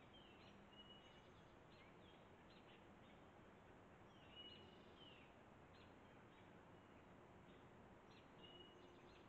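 Faint birdsong: short chirps, down-slurred notes and brief level whistles, scattered every second or so over a steady low hiss.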